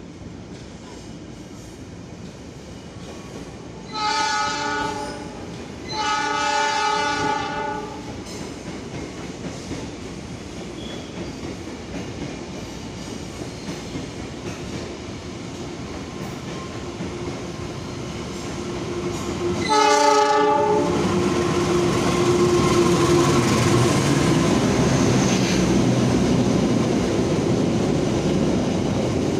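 Train horn sounding two blasts of about a second and two seconds, then a third short blast, after which a train runs past with a loud rumble and wheel clatter.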